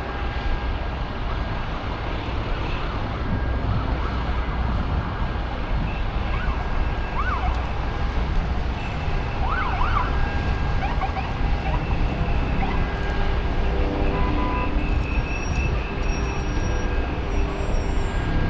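A distant emergency-vehicle siren, faint under steady traffic and wind noise, with a few quick up-and-down wails about halfway through.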